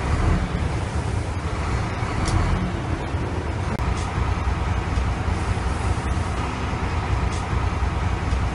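Heavy vehicle engine running steadily with a low, even drone and no change in speed.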